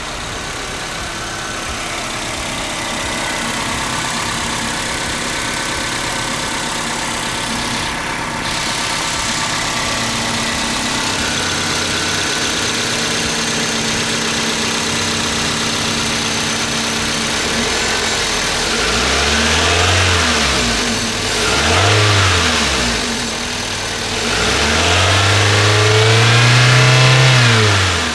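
2003 Toyota Corolla's engine idling steadily, then revved three times from about two-thirds of the way through, each rev rising and falling in pitch, the last held longest.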